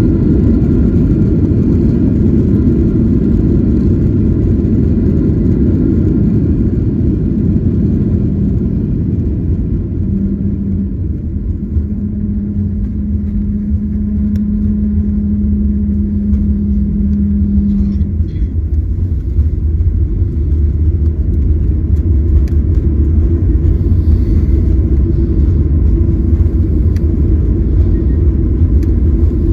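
Cabin noise inside a Boeing 737-900ER taxiing on the ground: its CFM56-7B engines idling as a steady low rumble. A steady hum joins about ten seconds in and stops after about eight seconds.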